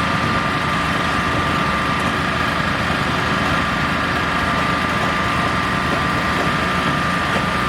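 Construction machinery running steadily: a constant engine drone with an unchanging high whine over it.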